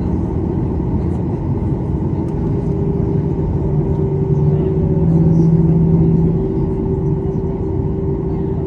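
Cabin noise aboard a Boeing 737-800 on the ground after landing: a steady low rumble from the engines at idle and the air system, with a droning hum that swells for a couple of seconds around the middle.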